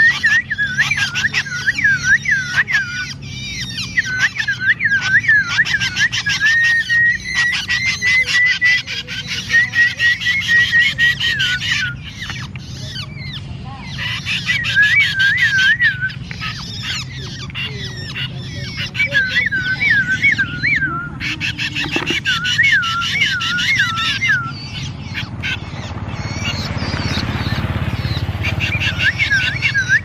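Tame birds calling in runs of rapid, repeated rasping chirps, a few seconds at a time with short breaks, while being hand-fed crickets.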